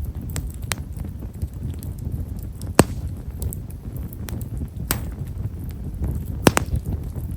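Japanese stewartia (himeshara) firewood burning in a campfire, crackling with small, sharp pops at irregular intervals, two louder pops about three seconds in and near the end, over a steady low rumble.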